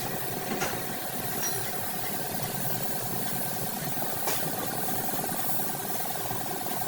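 A machine running steadily: a continuous mechanical hum, with a couple of faint knocks.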